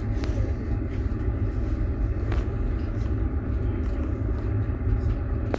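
Passenger train running, heard from inside an open-plan sleeper carriage: a steady low rumble from the wheels and running gear, with a few faint clicks.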